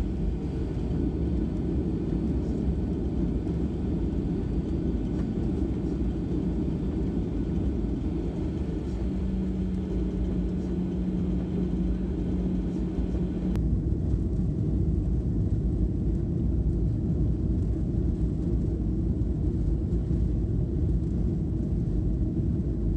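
Steady low rumble of a Boeing 737-800's jet engines heard from inside the passenger cabin, with a steady hum for a few seconds in the middle. About halfway through, the hiss above the rumble drops away abruptly.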